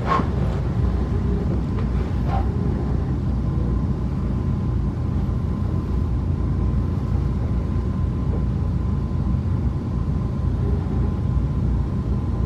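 Steady low rumble of a locomotive-hauled passenger coach running along the rails, heard from inside the car, with a faint steady high whine. A sharp click right at the start and a lighter one about two seconds in.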